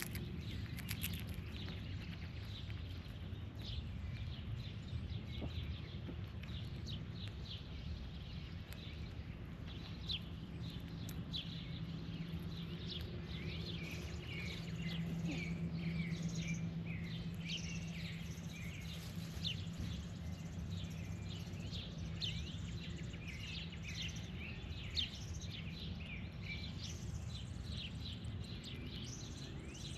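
Birds chirping, with many short, quick calls coming thick from about a third of the way in, over a low steady hum that swells around the middle.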